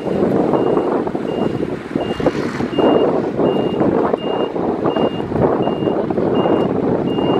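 Reversing alarm on a heavy earth-moving machine, one high beep about every three quarters of a second, over the loud, rough running of its diesel engine.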